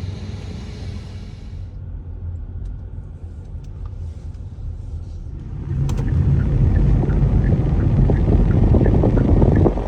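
Motor vehicle running with a steady low rumble, growing louder about six seconds in.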